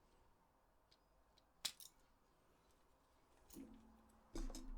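Near silence at a workbench, broken by a sharp click and a smaller one about a second and a half in as small plastic controller parts or a cutting tool are handled. A faint low hum and a soft knock come near the end.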